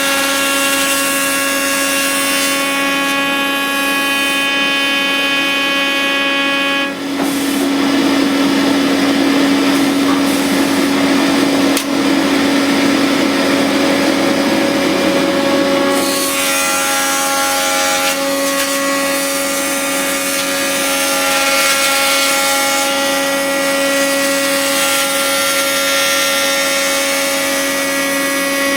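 Automatic woodworking machine making wooden hammer handles, running with a steady tonal whine. From about seven seconds in to about sixteen seconds a loud rough cutting noise of the tool shaping the wood rides over it.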